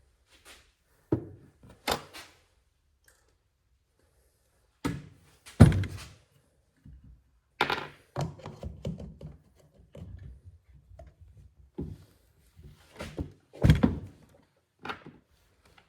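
Irregular metal clunks and knocks as car suspension parts and tools are handled. The heaviest thunks come about five, eight and fourteen seconds in.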